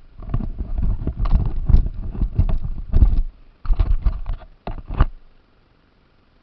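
Radio-controlled car jolting over rough ground, heard from its onboard camera: about five seconds of irregular knocks and rattling over a heavy low rumble, with a short break about three and a half seconds in, then stopping.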